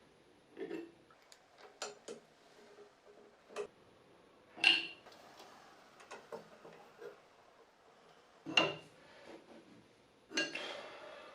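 Metal parts and tools being handled and set down: scattered clinks and knocks, two of them ringing briefly, with a longer rattling clatter near the end.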